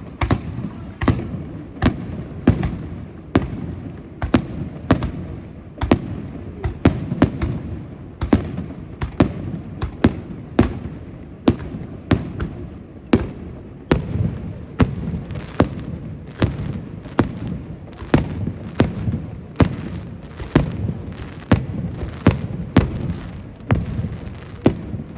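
Aerial fireworks shells bursting one after another, sharp bangs at a little more than one a second over a continuous low rumble.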